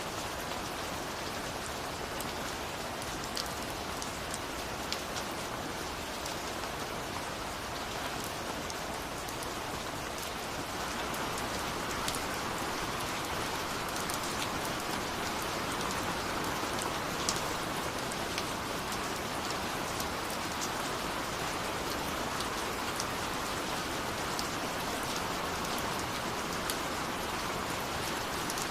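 Steady rain falling, a dense even hiss with scattered sharper drops ticking on a surface; it grows slightly heavier about eleven seconds in.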